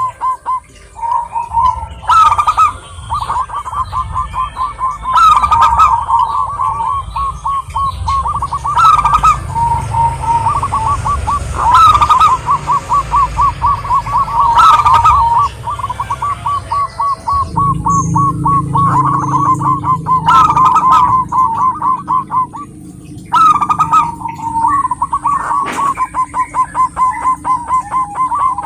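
Zebra dove (perkutut) cooing continuously: phrase after phrase of rapid, short staccato notes, each phrase rising to a slightly higher peak. A faint steady high-pitched whine sounds behind it.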